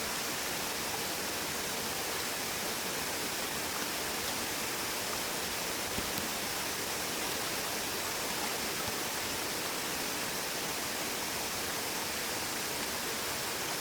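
A mountain stream flowing, a steady, even rush of water.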